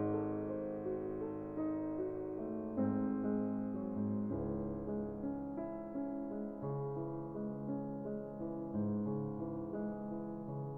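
Background piano music: a soft, slow melody over sustained chords.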